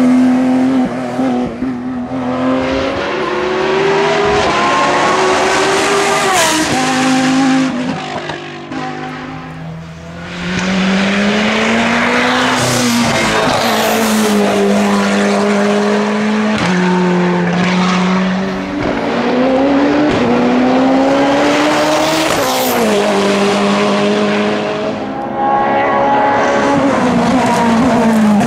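Hillclimb race car engine at full attack, its pitch climbing hard through the revs and dropping sharply at each gear change or lift for a corner, over and over. The engine goes quieter for a moment about eight to ten seconds in before pulling hard again.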